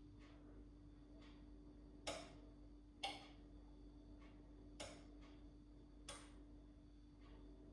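Several short, sharp taps at uneven intervals, four louder ones and some fainter, over a faint steady hum; otherwise near silence.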